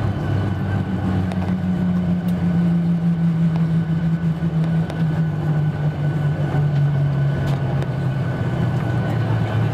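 Cabin noise of a Boeing 737-800 heard from over the wing: its CFM56 jet engines running with a loud low drone that slowly falls in pitch, over a steady rush of air and a faint high whine.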